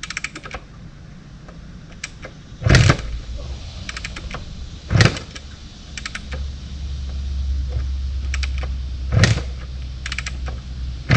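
1974 Kawasaki KS125 two-stroke single being kick-started: three heavy kicks with clicking of the kickstart mechanism between them, and a low rumble from about six to ten seconds in. The engine kicks back and wants to fire but does not start.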